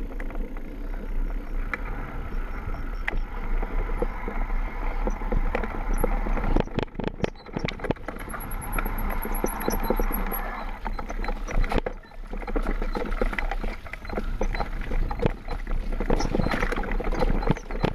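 A Trek mountain bike riding downhill over a rough, wet trail: steady tyre and wind noise, with the bike rattling and clattering over bumps throughout.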